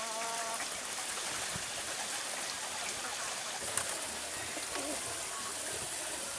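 Birds calling now and then against a steady hiss, with a short pitched call at the very start.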